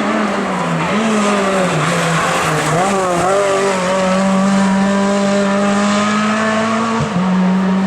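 Hill climb race car engine running hard at high revs, its pitch wavering up and down over the first three seconds as the throttle changes, then held steady. A brief break about seven seconds in, typical of a gear change.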